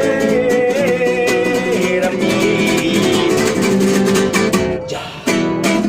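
Acoustic guitar strummed in a steady rhythm, accompanying a song. The playing dips briefly about five seconds in, then picks up again.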